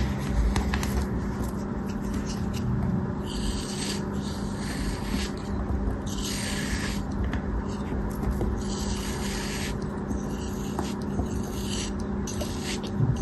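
Soft material being cut and scraped in about six separate strokes, each lasting around a second, over a steady low hum.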